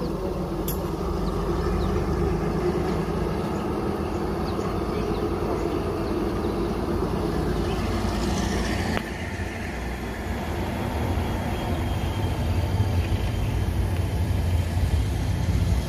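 Train running: a steady low diesel engine rumble with rolling noise, easing briefly about nine seconds in.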